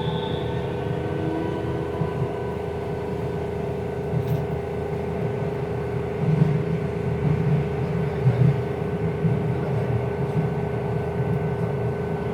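Keihan 3000 series train running, heard from inside the car. The Toyo IGBT inverter's rising whine fades in the first second or two, then the train runs on with a steady hum, a low wheel-on-rail rumble and a few short knocks from the track.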